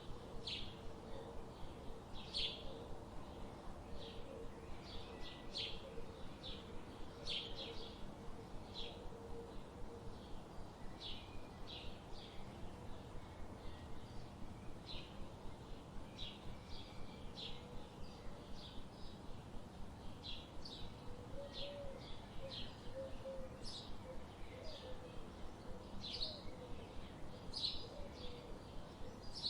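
Forest ambience: small birds chirping, short high calls repeating irregularly about once a second, over a faint steady background noise. A lower warbling call is heard faintly at the start and again in the last third.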